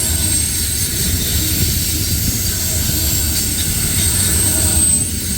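Cars of a long freight train rolling past at speed: a steady rumble of wheels on rail, with a thin high whine over it.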